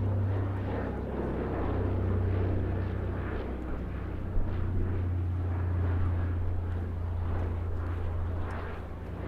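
The Consolidated PBY-5A Catalina's two Pratt & Whitney Twin Wasp radial engines running in flight, a steady low-pitched drone whose loudness swells and dips slightly.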